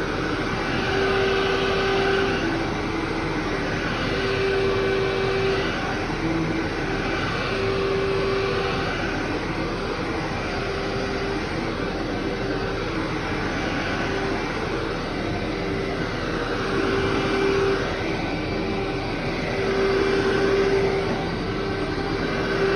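Vacuum cleaner running over carpet, pushed back and forth in strokes, so its steady motor tone swells and dips about every two to three seconds.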